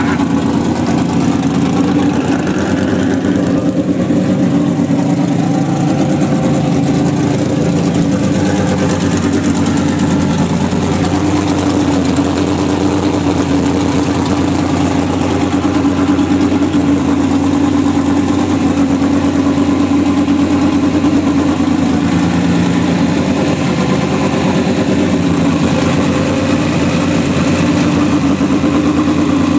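A hot rod's V8 engine with tube headers, idling steadily and loudly.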